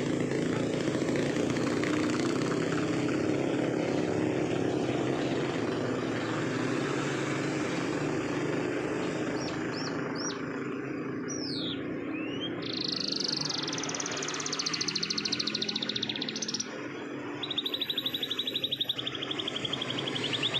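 Canary singing: a few quick downward-sweeping whistles about halfway in, then a fast rolling trill, and after a short pause a second, lower rolling trill. Under the first half, a steady engine drone fades away.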